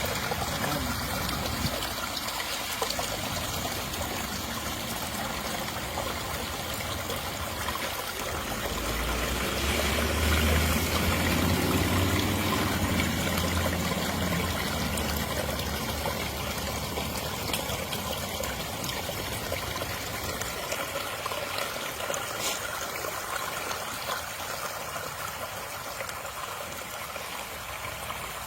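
Storm water running and trickling over the rocks of a rock-lined dry creek bed as a steady wash of noise. A low rumble swells and fades about a third of the way in.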